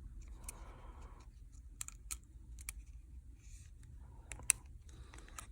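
Scattered light clicks and taps of small phone parts and tools being handled during iPhone reassembly, with a sharper click about four and a half seconds in.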